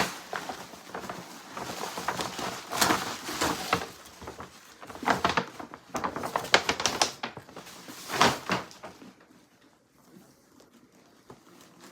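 Packaging being handled and opened during a purse unboxing: irregular bursts of rustling and crinkling with small clicks and knocks, dying away about nine seconds in.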